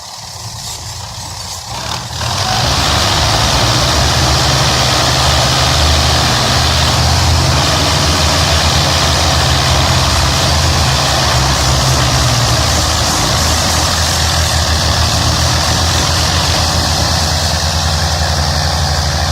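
Belarus 520 tractor's diesel engine running loud and steady, jumping up in level about two seconds in and holding there.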